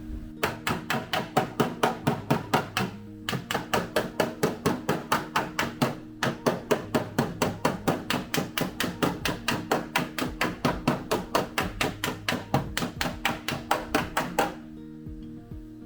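Body hammer striking a car's steel body panel in quick, even blows, about five a second, with two short pauses, over background music.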